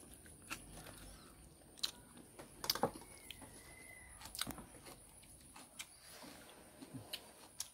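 Quiet room sound with a few scattered sharp clicks and a single short, faint bird chirp about three seconds in.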